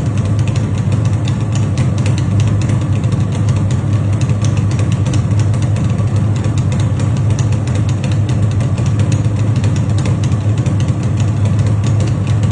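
Yamaha RD350's two-stroke parallel-twin engine idling steadily through its exhaust.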